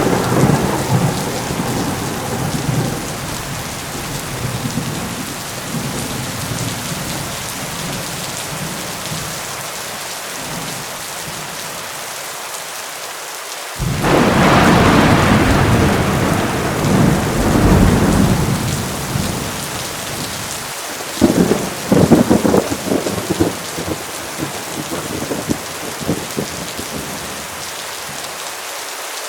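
Heavy rain falling steadily through a thunderstorm. A roll of thunder dies away at the start. About halfway through, a loud peal of thunder starts suddenly and rumbles for several seconds, followed by a few sharp cracking claps a little later before the rain carries on alone.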